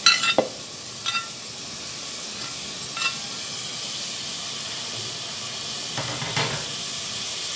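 Spice paste sizzling steadily in oil in a clay cooking pot. A few sharp knocks near the start as chopped stems and potato are tipped in from a clay plate, then light stirring sounds from a wooden spatula.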